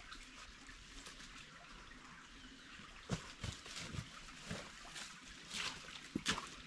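A small stream trickling. From about three seconds in, a run of short, irregular knocks and splashes rises above it.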